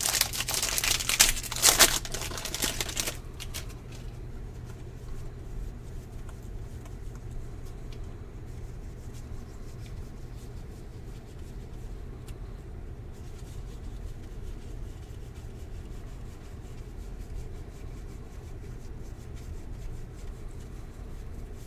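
Baseball trading cards and their foil pack being handled: a loud rustle for about the first three seconds, then only faint card handling over a steady low hum.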